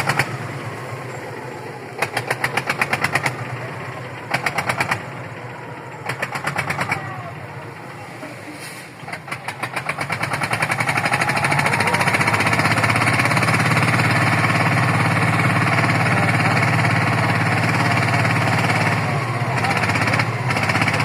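An engine is cranked in several short bursts of rapid, even pulses, each about a second long. About halfway through it picks up and runs steadily and loudly.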